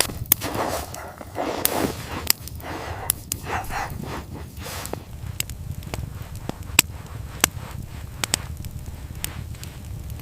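Wood fire crackling, with irregular sharp pops several times a second. Softer rustling sounds come in over it during the first half.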